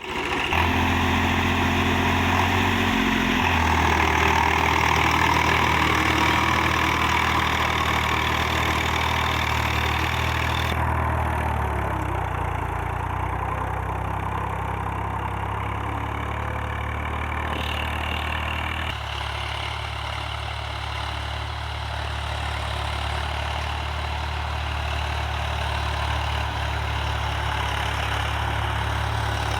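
Swaraj 735 FE tractor's three-cylinder diesel engine running steadily while pulling a nine-tine cultivator. The engine note shifts pitch a few times, about 3½, 12 and 19 seconds in.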